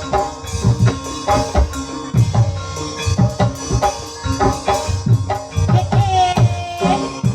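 Ebeg (kuda kepang) accompaniment music from a gamelan-style ensemble: drums struck in a steady, driving rhythm under ringing pitched percussion, with a held, wavering melodic note about six seconds in.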